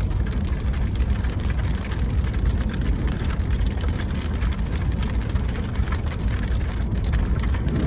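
A car on the move heard from inside the cabin: a steady low road rumble with a fine crackle over it.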